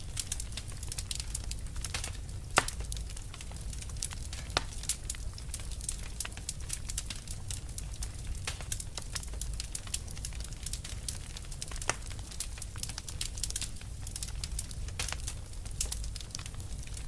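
Fire crackling: a dense, irregular run of small sharp snaps and pops over a low steady rumble, with one louder pop about two and a half seconds in.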